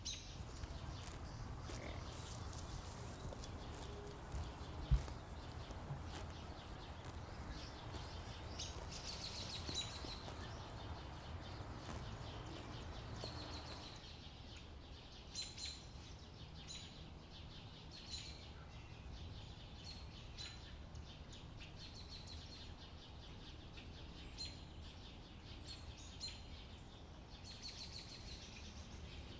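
Small birds chirping repeatedly over a low wind rumble, which eases off about halfway through. There is one sharp knock about five seconds in.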